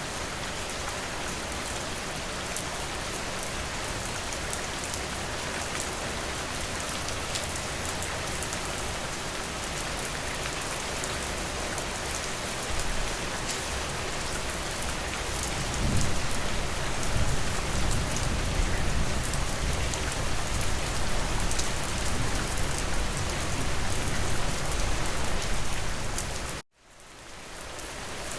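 Steady rain falling on a surface. About halfway through a louder low rumble joins it; near the end the whole sound cuts out abruptly and fades back in.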